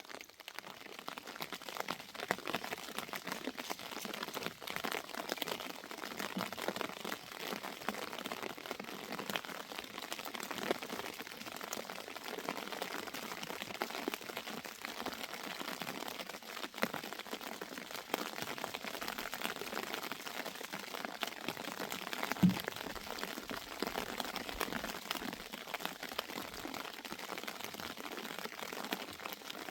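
Rain falling in a steady, dense patter, with one short thud about 22 seconds in.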